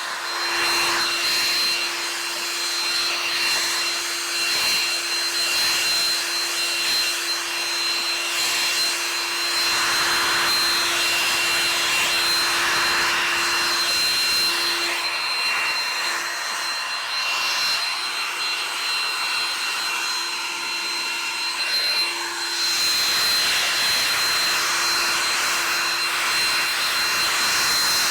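Electric air blower running steadily, a rush of air with a high motor whine, used for drying the boat.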